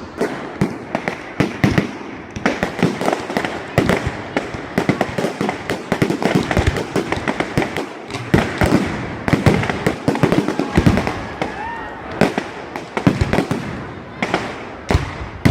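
Fireworks display: a dense, irregular barrage of bangs and crackles, several a second, with no letup.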